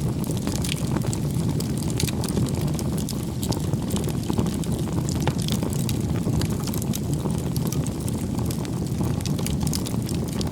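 Wood campfire burning: a steady low rumble of flames with frequent small sharp crackles and pops.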